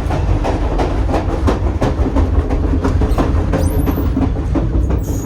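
Grand Canyon Railway passenger train running along the track: a steady low rumble with a quick, uneven series of sharp clicks from the wheels passing over the rails.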